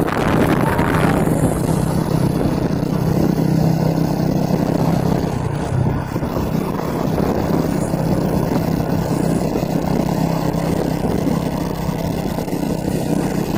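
Truck engine running steadily, with a constant low hum.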